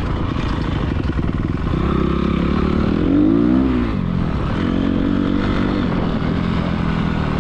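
Honda CRF250R's single-cylinder four-stroke engine running as the dirt bike is ridden, revving up and back down about three seconds in, then holding a steadier pitch.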